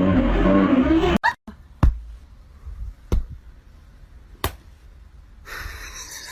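Music stops about a second in, then four sharp taps spaced roughly a second apart, followed by a steady hiss from about five and a half seconds.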